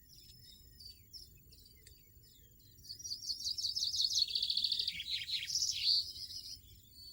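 European goldfinch song: faint scattered chirps, then a loud run of rapid, high twittering notes lasting a few seconds from about the middle, which then fades.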